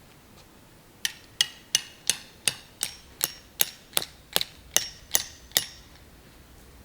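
Hammer driving a metal tent stake into the ground: about thirteen quick, even blows, roughly three a second, each with a short metallic ring.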